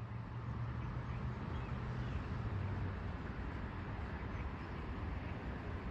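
Steady outdoor background noise with a low rumble underneath.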